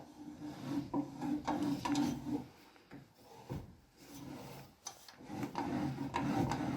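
Hand pipe cutter being turned round an exhaust pipe, its cutting wheel scraping and grinding into the metal with a squeaky tone. The scraping comes in two spells, with a few clicks between them.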